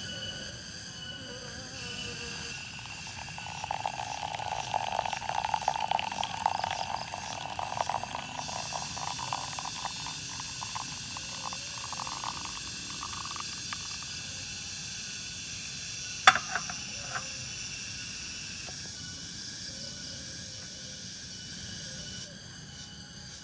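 Forest insects chorusing steadily in several high, level tones, with a louder pulsing call from a few seconds in until about halfway, and one sharp knock about two-thirds of the way through.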